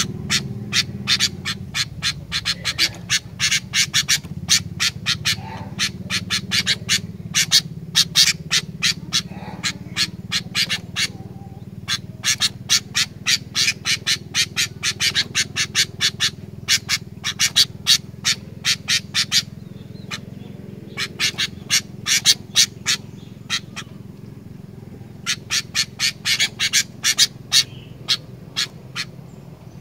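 Sooty-headed bulbul calling in rapid runs of short, sharp chattering notes, about four a second. The runs are broken by brief pauses, over a steady low hum.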